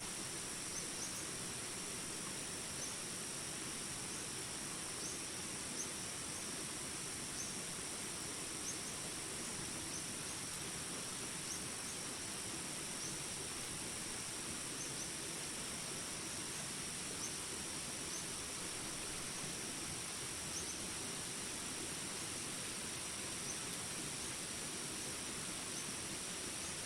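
Jungle ambience: a steady high-pitched drone of insects with a short chirp repeating about every second and a half, over an even hiss of rain.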